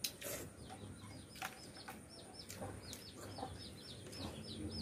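Bird chirping: a rapid series of short, high chirps that come faster in the second half. A few light clicks of chopsticks and bowls.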